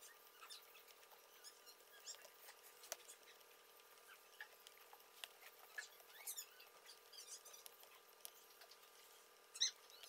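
Faint, scattered small clicks and scratches with a steady hum underneath, and one louder click near the end.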